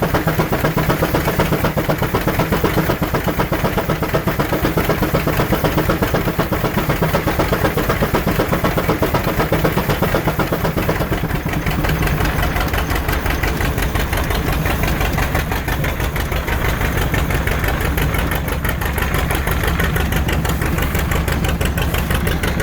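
George White steam engine running under load on a power eater, with a fast, steady run of beats. About halfway through the sound shifts and the low end grows stronger.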